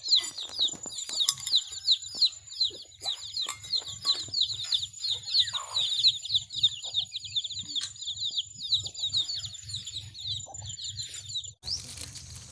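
Birds chirping in a quick run of short, falling chirps, several a second, with a steady high whine above them. Both cut off suddenly near the end.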